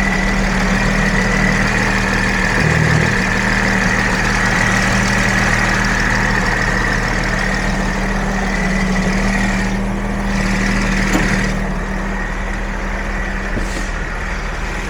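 Mercedes Sprinter's 3.0-litre V6 turbodiesel (OM642) idling steadily after a quick restart, with a steady high whine alongside the engine note.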